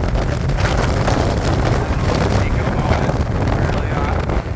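Strong gusty wind buffeting the microphone: a loud, steady rumble with constant rough flutter.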